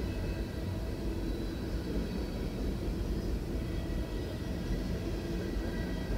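Freight cars of a passing freight train rolling over the rails, a steady rumble of wheels and cars.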